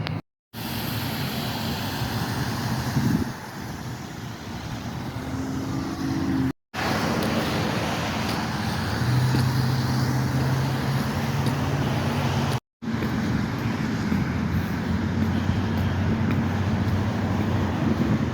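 Road traffic: a steady rush of passing cars, with engine hum underneath, in short stretches that cut out abruptly three times.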